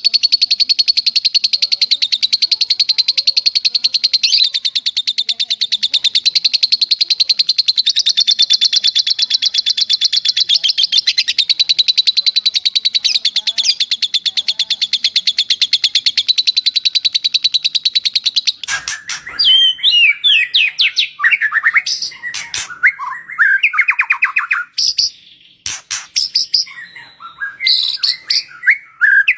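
Recorded birdsong. For about 18 s a lovebird gives one long, very rapid, unbroken chattering trill, its sustained 'long shot' (tembakan panjang). It then breaks into varied whistled phrases that glide up and down, from a songbird such as a white-rumped shama or a cililin.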